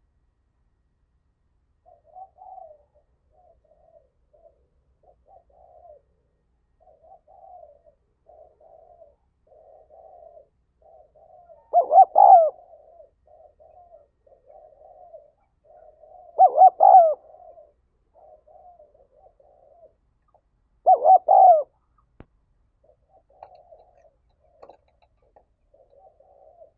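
Spotted dove cooing: a steady run of soft, low coos, broken three times by a much louder two- or three-note coo phrase.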